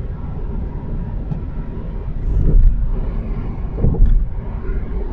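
Car tyres running through wet snow and slush, heard from inside the car as a steady low rumble and hiss, with two louder surges about two and a half and four seconds in.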